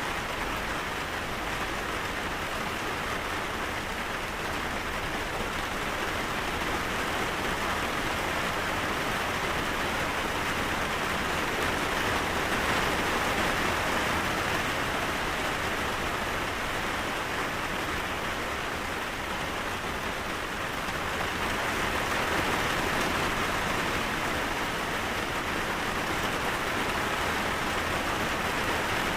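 Steady rain falling, an even hiss that swells slightly louder now and then.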